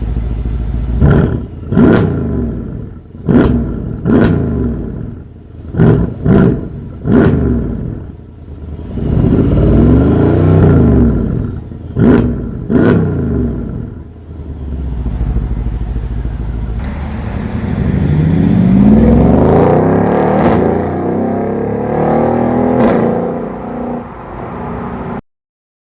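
Mercedes-Benz CLS63 AMG V8 exhaust, fitted with a modified mid-pipe section, revved in a quick series of sharp throttle blips, then held through longer revs that rise and fall. It cuts off suddenly near the end.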